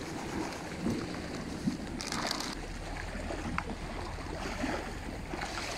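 Dry fishing groundbait rustling as it is handled and poured from an opened packet, in two short bursts, about two seconds in and near the end, over steady wind noise.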